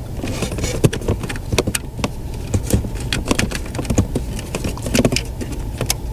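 Irregular sharp clicks and light plastic rattling of wiring plugs being pushed into their sockets on a car's dash bezel, over a steady low rumble.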